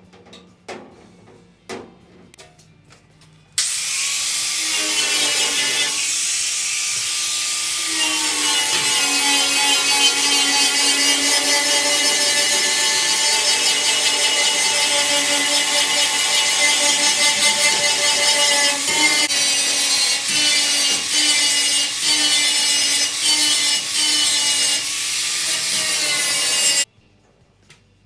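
A handheld electric power tool runs against the steel body panel. It spins up about three and a half seconds in, its pitch sags briefly under load now and then, and it cuts off abruptly near the end. A few light knocks come before it starts.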